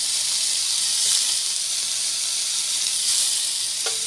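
Chopped onions and curry leaves frying in hot oil in a pan, a steady sizzling hiss.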